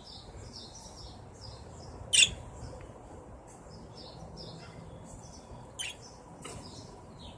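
Small caged pet birds chirping in short, high calls, with a sharper, louder chirp about two seconds in and a few more near the end.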